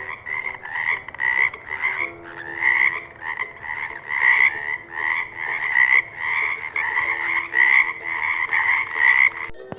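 Frog croaking, a fast steady series of repeated calls, about two a second, that stops abruptly near the end.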